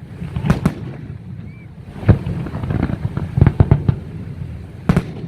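Aerial firework shells bursting in an irregular series of sharp bangs, several close together in the middle and a loud one near the end, over a steady low rumble.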